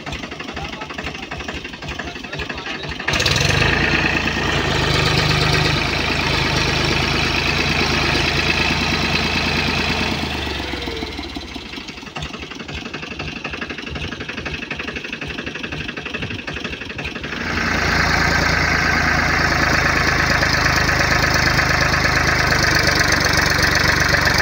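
Tractor diesel engine chugging at idle, then revved up sharply about three seconds in and held at high revs, easing back to a chugging idle after about ten seconds, then revved up and held again for the last stretch.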